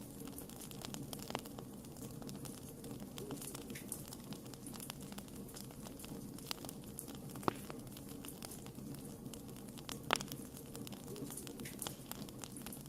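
Wood fire crackling: a steady low rustle of burning with frequent small snaps and pops, and two louder pops, one just past the middle and one about ten seconds in.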